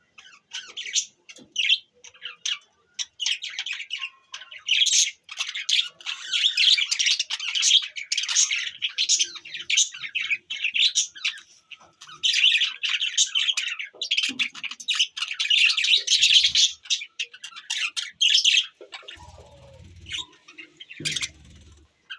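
Budgies chattering, a dense run of rapid high chirps and squawks that thins out to scattered chirps near the end.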